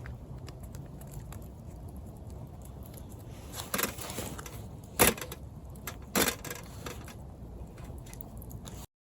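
Low steady background noise with a few sharp clicks or knocks in the middle, the loudest about halfway through. The sound cuts off suddenly near the end.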